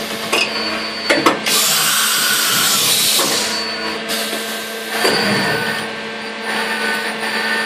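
Mazak Impulse CNC milling machine running on brass plate, with a steady motor and spindle hum. A few sharp clicks come a little over a second in, then a loud hiss for about a second and a half.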